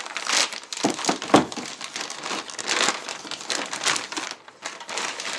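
Plastic packaging crinkling and crackling as it is handled, with irregular sharp clicks.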